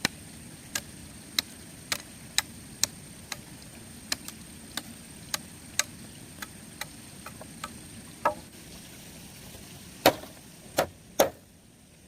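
Repeated sharp taps or knocks, about two a second, growing sparser, then three louder, heavier knocks near the end.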